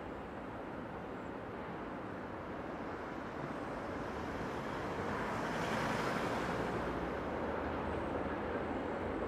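SBB Re 420 electric locomotive hauling a train of car-carrier freight wagons approaching, its running noise and the rumble of wheels on rail growing louder. A hissing swell comes about six seconds in, and a low hum follows as the locomotive draws near.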